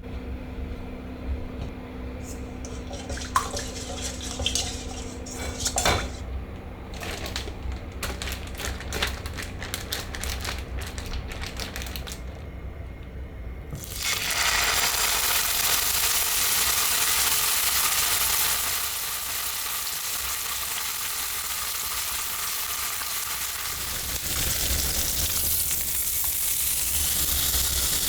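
Kitchen utensils clinking and knocking against dishes and a pan, then, about halfway through, a loud steady sizzle of food frying in a hot pan starts suddenly.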